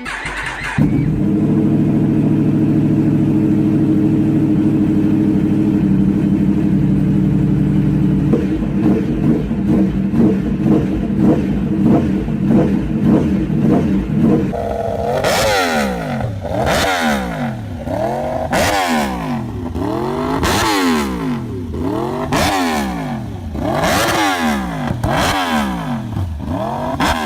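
Superbike engine idling steadily, then from about halfway in revved in repeated blips, about eight of them, each swelling up and falling back in pitch roughly every second and a half.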